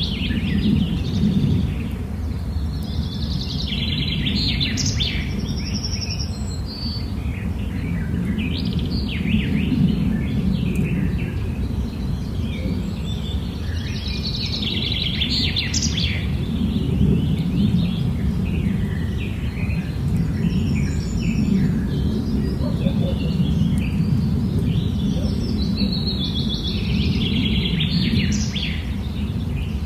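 Many small wild birds chirping, short calls overlapping throughout, over a steady low rumble.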